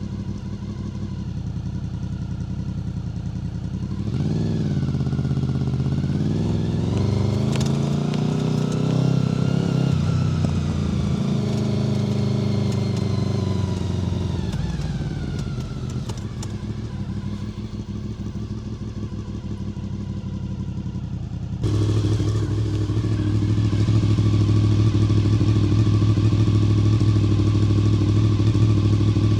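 Honda VFR800 FI V4 engine through a Black Widow aftermarket exhaust: running steady and low, then from about four seconds in accelerating with the pitch climbing and dropping back at gear changes, before easing off and falling to a low steady note. Near the end the sound jumps suddenly to a louder, steady low running note.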